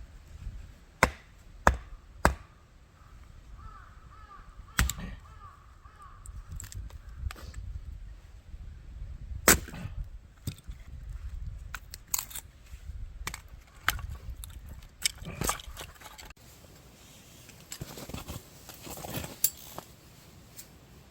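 Irregular sharp cracks and knocks of firewood at a burning wood stove, about a dozen, each short and separate, with gaps of up to several seconds between them.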